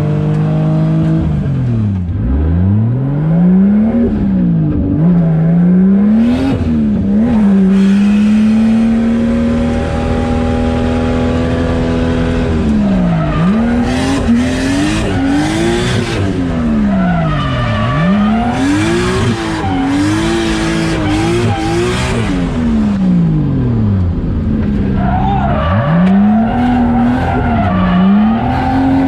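A 630-horsepower drift car's engine is driven hard, its pitch repeatedly dropping sharply and climbing back as the throttle is lifted and stabbed while drifting. Tires squeal in bursts around the middle.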